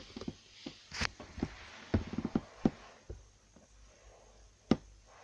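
Irregular soft clicks and rustles from a mother cat moving among her newborn kittens in their bedding, with a brief crackle about a second in and a sharper knock near the end.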